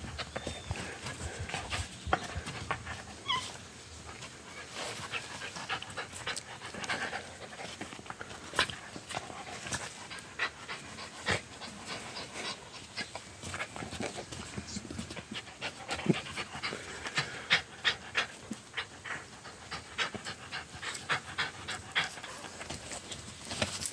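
A dog panting during play, with many scattered sharp clicks and taps throughout.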